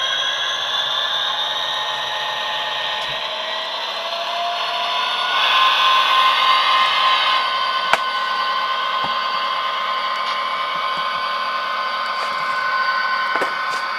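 Tsunami sound decoder in an HO-scale SD60M model playing diesel locomotive engine sound through its small speaker, the engine notes rising in pitch over the first few seconds, then holding as a louder steady whine. A sharp click about 8 seconds in.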